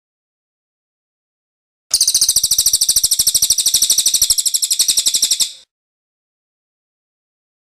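Cililin bird singing one fast, rolling trill of rapid, even notes. It starts about two seconds in, lasts about three and a half seconds and fades out.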